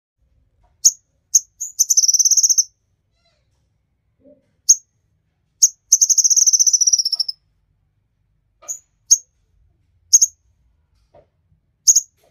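Kolibri ninja sunbird singing in full song: sharp, high single chips scattered through, and two rapid trills of fast repeated notes, the second about a second and a half long, each falling slightly in pitch.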